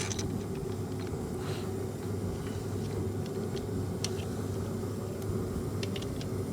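A steady low hum with a few short, light clicks and taps of hand tools on engine parts scattered through it.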